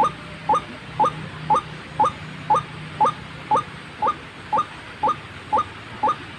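White-breasted waterhen calls: short rising notes repeated evenly about twice a second, over a low steady hum.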